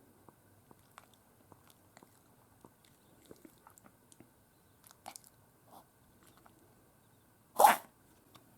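Yorkshire terrier making faint clicking mouth sounds, then one loud, short sneeze-like snort about three-quarters of the way through.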